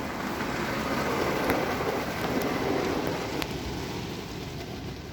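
Car wash spray pattering on the car's body and glass, heard from inside the cabin, as the tri-foam stage is applied. The sound swells in the middle and slowly fades towards the end.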